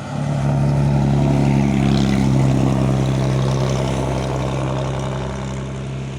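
Heavy truck engine running loud and steady at a constant pitch, after a sudden rise in level at the start, easing off slightly near the end.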